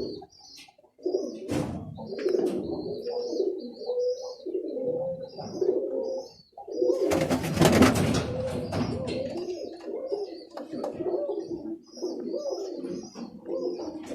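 Birmingham roller pigeons cooing in a loft, with many short high chirps over the cooing. A loud burst of rustling noise comes about seven seconds in and lasts about a second.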